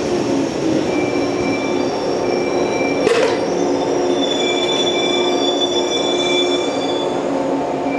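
Electric multiple-unit train moving slowly through a station, with a rumbling run and several steady high-pitched whines and squeals that come and go. A sharp click comes about three seconds in.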